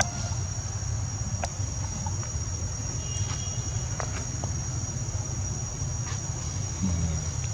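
Insects droning at one steady high pitch, over a low rumble, with a few faint clicks.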